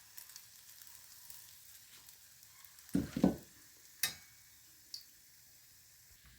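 Patha rolls frying in hot oil with a faint, steady sizzle. A short knock comes about three seconds in and a sharp click about a second later, most likely a utensil against the pan.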